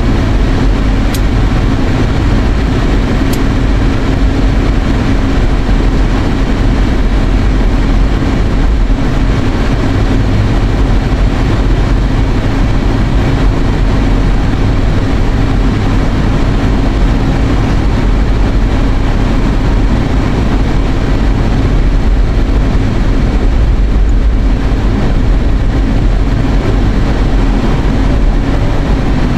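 Steady, loud drone inside a moving car's cabin: engine and road rumble with a constant hum, the air conditioning fan blowing on high.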